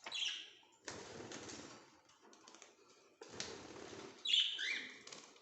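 Pet cage birds giving a few short chirps, with bursts of rustling and wing flutter between them.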